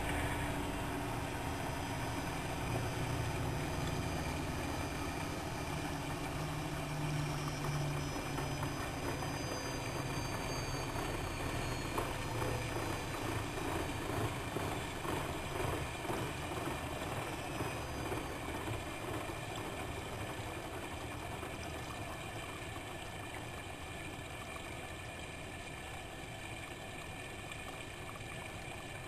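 Siemens Siwamat 6143 washing machine running, a steady mechanical hum that slowly gets quieter over the second half.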